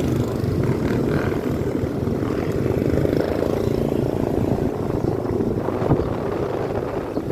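Motorcycle engine running steadily under way, with road and wind noise; the bike is new and being ridden in for its break-in.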